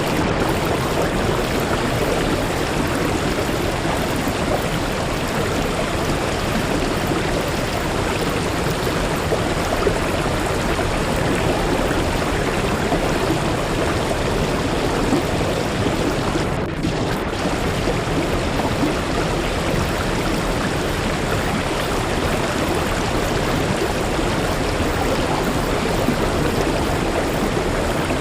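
Waterfall water rushing steadily, an even dense wash of sound, briefly dipping a little past the middle.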